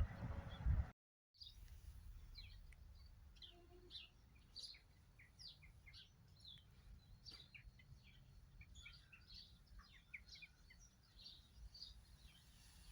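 Songbirds chirping faintly: many short, high chirps and calls, scattered and overlapping.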